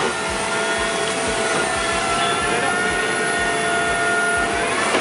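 Tracked vehicle's engine running steadily: a high, even whine over broad rumbling noise.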